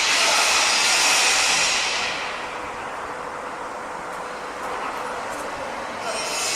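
Construction-site noise: a loud, hissing machine or tool sound that drops away about two seconds in and starts up again near the end, over a steady background rumble of site machinery.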